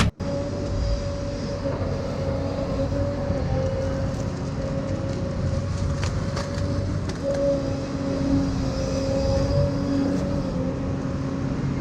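Excavator running steadily, a low engine drone with a constant higher whine over it.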